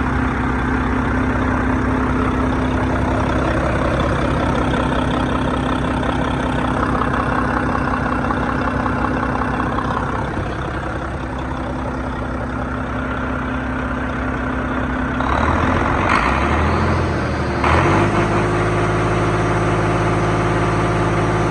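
Volvo D13H 12.8-litre inline-six diesel engine running steadily at idle, then revved about three quarters of the way through and held at a higher, steady speed.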